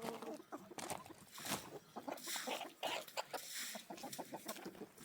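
Domestic hens clucking in short, broken calls, with a hiss of noise between about two and three and a half seconds in.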